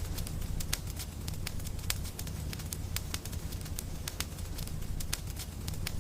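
Wood fire in a fireplace crackling, with irregular sharp pops several times a second over a low steady rumble.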